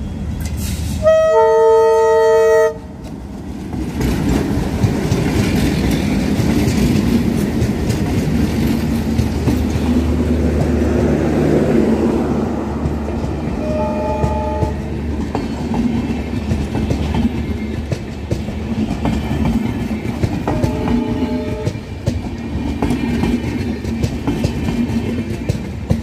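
Indian Railways locomotive sounding a long horn blast about a second in, then a rake of empty passenger coaches rolling past close by with a steady rumble and clatter of wheels on the rails. Two shorter, fainter horn blasts come later.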